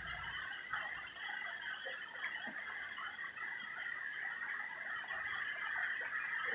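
Heavy rain pouring steadily in a downpour, an even hiss. A low rumble dies away in the first half second.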